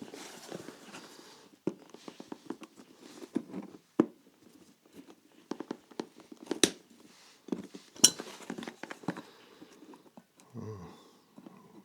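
Hand tools working at a leather shoe heel to pry it off: irregular small clicks and scrapes, with a few sharper knocks, the heel still held tight.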